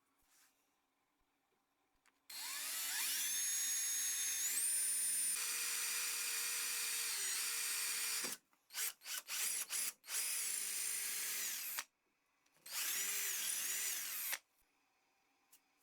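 Small handheld electric power tool, drill-type, spinning up with a rising whine about two seconds in and running for about six seconds. It is then triggered in several short bursts, and once more for about two seconds near the end.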